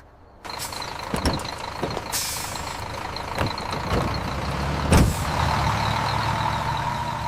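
A motor vehicle running, with a steady whine over its noise and a few sharp thumps, the loudest about five seconds in.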